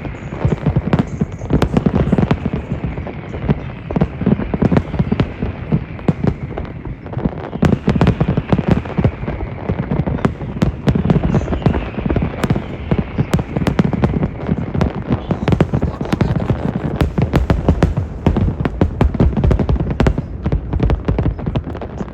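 Aerial fireworks bursting in rapid, continuous succession: a dense barrage of booms and crackling reports with a heavy low rumble, no gap between them.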